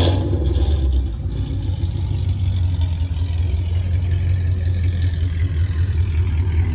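Car engine and road noise, a steady low drone as the car moves slowly, with a brief clatter right at the start.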